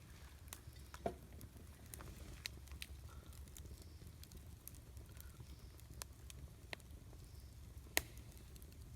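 Wood campfire crackling: scattered sharp pops and ticks, with two louder snaps about a second in and near the end, over a steady low rumble.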